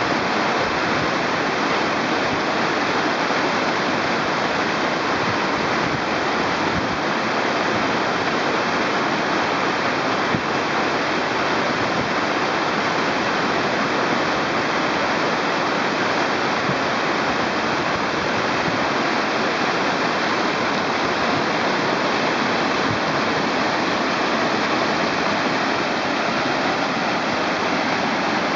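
Rōmon Falls, a mountain waterfall swollen by torrential rain, pouring in a steady, heavy rush of falling water.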